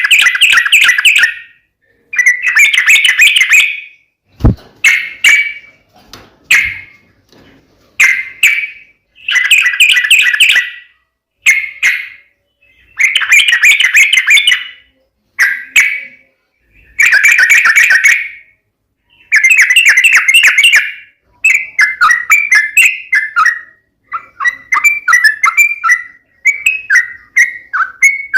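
Yellow-vented bulbul (trucukan) singing loudly in bursts of rapid chattering notes, each a second or two long with short pauses between. The last several seconds turn into choppier, staccato phrases. A single sharp click comes about four and a half seconds in.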